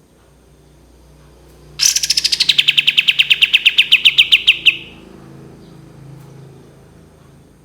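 Kapas tembak bird singing one long, rapid trill of about three seconds: fast repeated notes, roughly ten a second, that drop in pitch at the start, then hold level before stopping abruptly. This is its long 'tembakan' burst song.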